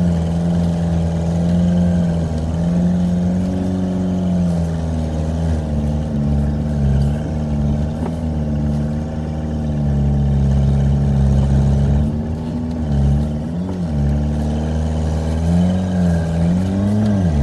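Volkswagen Jetta TDI diesel engine running under load, its revs rising and falling as it tries to pull the car and trailer out through snow on summer tires.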